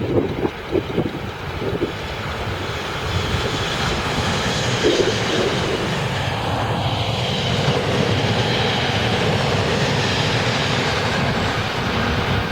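A train passing close by: a steady, loud rush of wheel-on-rail and running noise that builds over the first couple of seconds and then holds.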